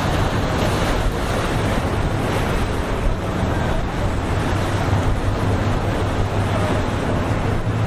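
Waves in a rough inlet and wind buffeting the microphone: a steady rushing noise with a low rumble underneath.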